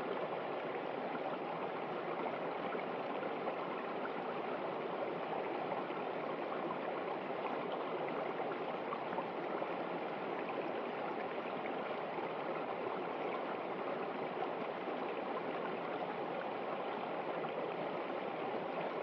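A river running, a steady rush of flowing water.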